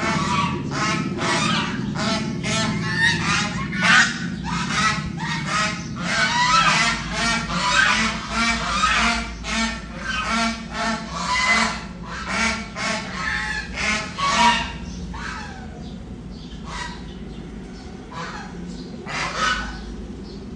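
A flock of geese honking, many calls overlapping in quick succession, thinning to a few scattered honks after about fifteen seconds.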